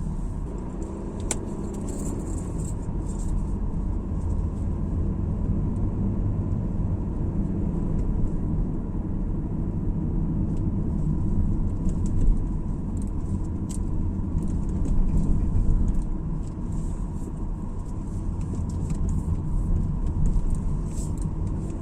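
A car driving along a road: steady low road and engine rumble with a few faint clicks.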